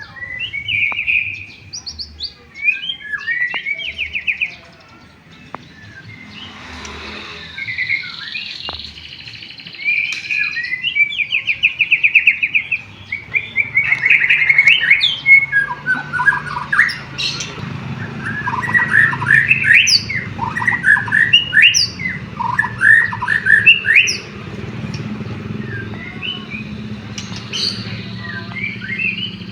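White-rumped shama (murai batu) singing a fast, varied song of whistled phrases and trills, laced with canary-like passages. A low steady hum runs under the song from about halfway through.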